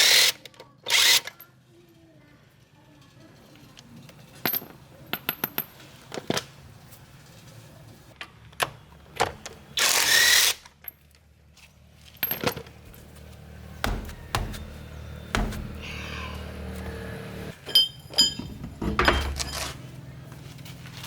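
Metal tools clinking and knocking on car parts, with a few short hissing bursts; a steady low hum comes in about halfway through.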